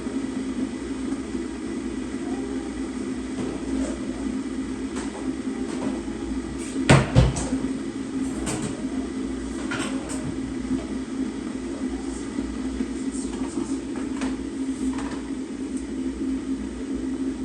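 Steady low hum with occasional clicks and knocks of kitchen work, the loudest knocks about seven seconds in.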